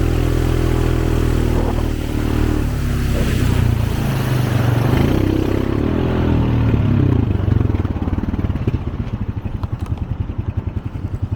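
Vehicle engine running and revving up and down, then settling about two-thirds of the way in to an idle with a regular pulsing beat.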